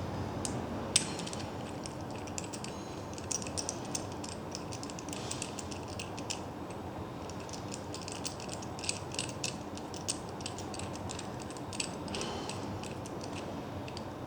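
Steady low machine rumble with rapid, irregular sharp clicks and ticks over it, a louder click about a second in, typical of a load-testing rig working on a steel rebar splice.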